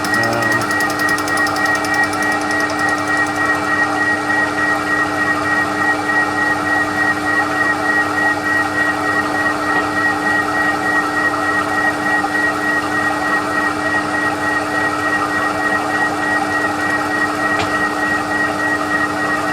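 TOS milling machine running, its CBN-tipped fly cutter taking a light facing pass across a warped exhaust manifold: a steady machine hum with a high whine that pulses evenly with each turn of the cutter.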